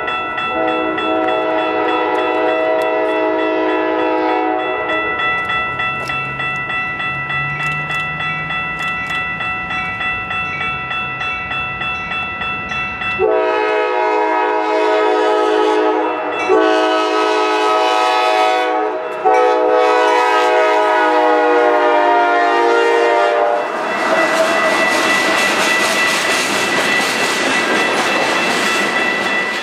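Freight train's locomotive horn sounding a multi-note chord, dying away, then three blasts in a row, the last one longest. Near the end the locomotive passes close with loud engine and rail noise.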